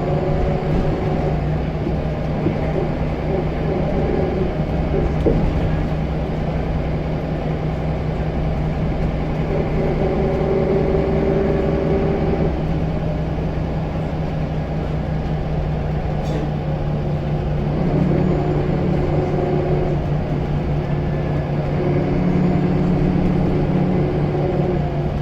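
Scania L94UB single-deck bus's diesel engine running as the bus drives, a steady drone whose note swells and fades several times as the engine works harder and eases off.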